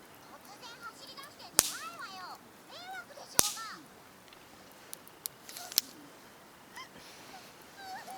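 Wood popping in a campfire: two loud, sharp cracks about a second and a half and three and a half seconds in, then a few smaller snaps, with thin chirping sounds in between.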